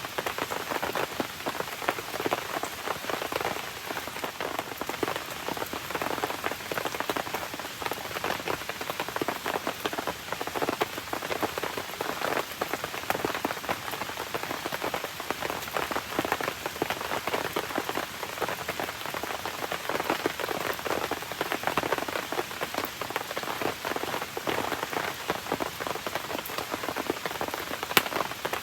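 Steady rain falling on surfaces, a dense, even patter of drops, with one sharp click near the end.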